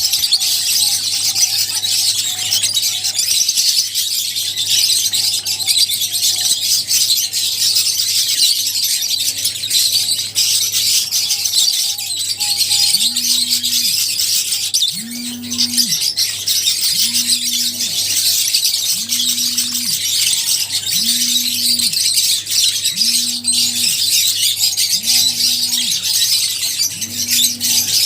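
A colony of lovebirds chirping continuously in a dense, shrill chatter. From about halfway through, a low steady tone repeats regularly, about once every two seconds, under the chirping.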